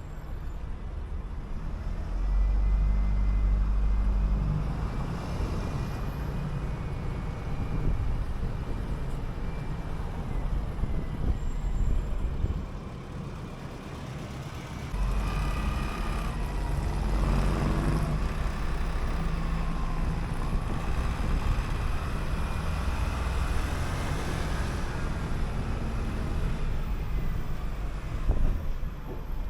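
City bus engine running with traffic noise as the bus drives. It drops to a quieter rumble for a couple of seconds about halfway through, then pulls away again, and a wavering higher whine rises and falls in the second half.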